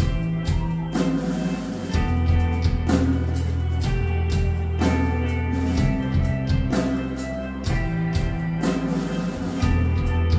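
Post-rock band playing live: electric guitars with bass and a drum kit keeping a steady beat.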